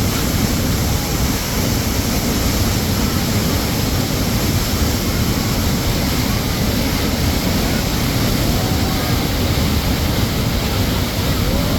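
Spring water rushing and splashing in a steady, loud, even rush. A faint short sliding tone rises over it about eight seconds in and again near the end.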